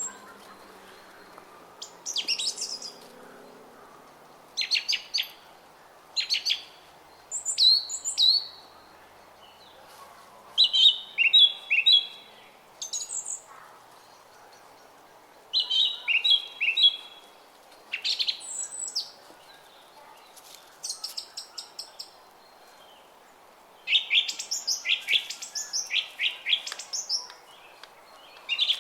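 Small songbirds chirping in short phrases of quick high notes every second or few, over the steady murmur of a flowing brook.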